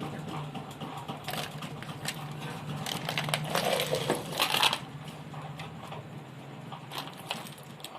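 Small metallic clicks and rattles of tools and parts being handled on a repair bench, with a louder clatter about three to four and a half seconds in, over a steady low hum.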